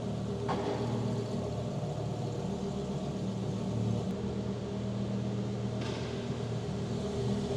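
Twin-turbo Lamborghini STO's V10 engine running steadily at low revs, a deep, even engine note with no revving.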